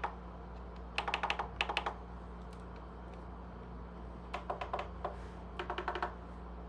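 Arturia MiniFreak synthesizer keys pressed with the synth unpowered: two runs of quick mechanical key clicks, about a second in and again from about four to six seconds in, over a steady low hum.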